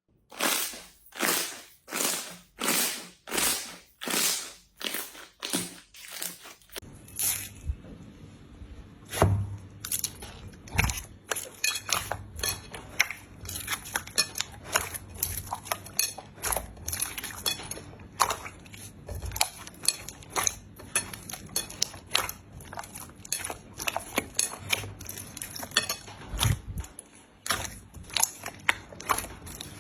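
Slime being handled for ASMR: about ten evenly spaced, swelling noisy strokes over the first seven seconds, then a dense, irregular run of small crackles and pops for the rest.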